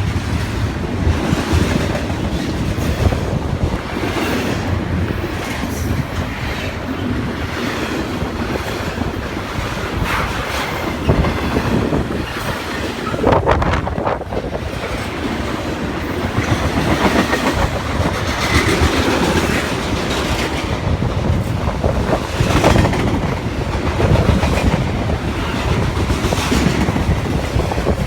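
Cars of a BNSF double-stack container freight train rolling past, their wheels clattering steadily over the rail joints.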